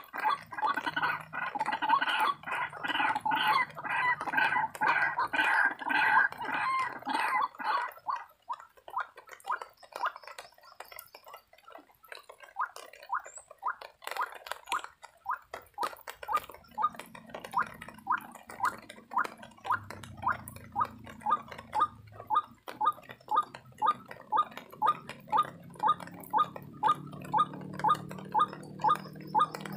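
White-breasted waterhen calls: a dense, fast run of gargling croaks for about the first eight seconds, then after a lull a steady series of short calls at about two a second.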